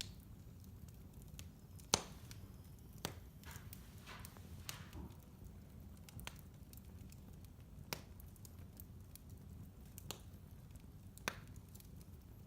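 Wood fire burning in a fireplace: a low, steady rumble with scattered sharp crackles and pops, the loudest about two seconds in.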